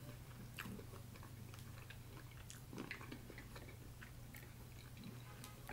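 Faint chewing and mouth sounds of a person eating snow crab, with scattered small clicks over a steady low hum.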